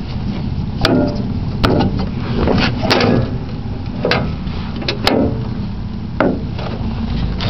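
An 11 hp Briggs & Stratton single-cylinder engine on a Murray lawn tractor runs steadily. About six sharp clunks, roughly a second apart, come from the gear shift being forced while the transmission refuses to go into gear.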